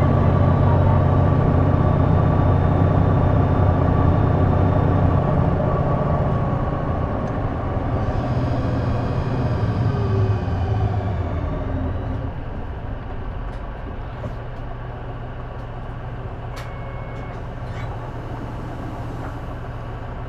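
Diesel city bus engine heard from inside the cabin. It pulls hard at first, then eases off as the bus slows, with a high whine and falling tone while it decelerates. Near the end it settles to a quieter steady idle-like hum with a few sharp clicks.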